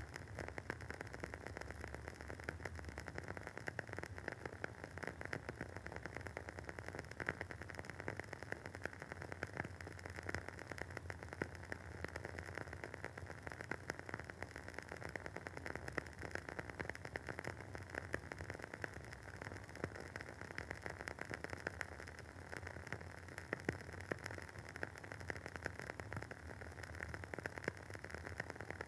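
Wooden wick of a WoodWick candle burning with a steady soft crackle: many small, rapid pops and clicks over a faint hiss.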